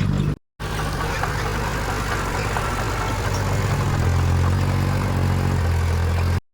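Diesel engine of heavy earthmoving equipment running steadily, a low drone that grows stronger about four seconds in. The sound drops out for a moment just after the start.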